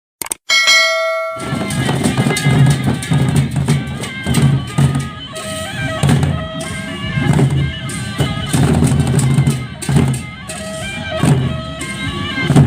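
Sasak gendang beleq ensemble playing: big drums beating a driving rhythm with crashing cymbals and gongs. It starts suddenly about a second and a half in, after a brief held tone.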